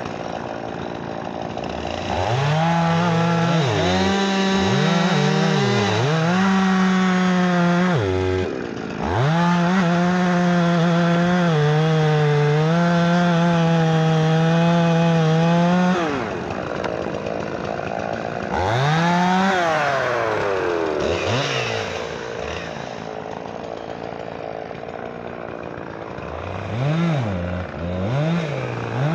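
Two-stroke chainsaw running at high revs and cutting wood, its pitch sagging and recovering as it works through the log. Twice it drops back to a lower, steadier running, and it revs up again near the end.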